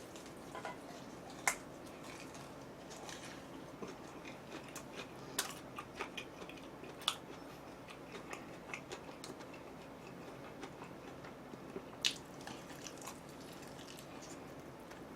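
A person chewing and biting food up close, with scattered small crisp clicks and crunches; the sharpest come about one and a half, five, seven and twelve seconds in.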